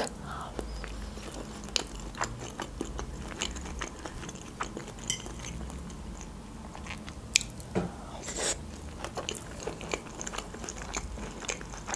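Close-miked chewing of a mouthful of crab stick and rice salad: many small, moist mouth clicks and smacks, with a few sharper ones about halfway through.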